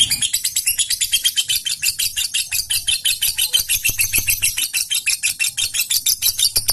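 Lovebird giving a long, unbroken rapid chatter (the 'ngekek' call), a fast run of sharp high notes at about ten a second.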